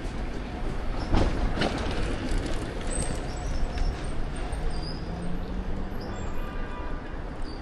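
Strong gusty wind buffeting the microphone with a low rumble that rises and falls, over street traffic noise; a faint engine hum passes about four to six seconds in.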